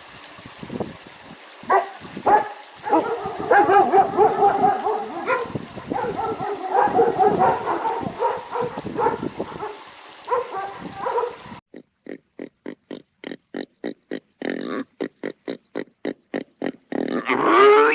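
Animal calls in two clips. First, a long run of repeated pitched calls. Then, after a cut, short calls come about four a second, and a louder, longer call near the end.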